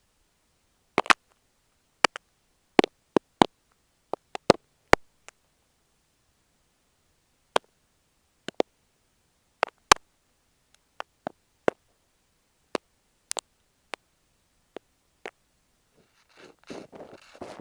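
Sharp, isolated clicks and taps right at an earphone microphone, irregularly spaced with silence between them. Near the end a close, crackly crunching begins: kinetic sand being squeezed against the mic.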